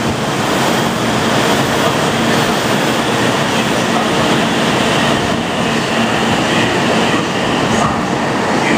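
800 series Shinkansen train running along the platform: a steady rush of wheel and air noise with a faint steady hum.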